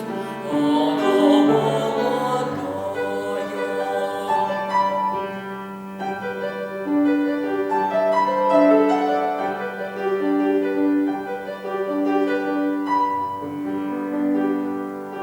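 A boy's voice singing with piano accompaniment; about four seconds in the voice stops and the piano plays the closing bars alone.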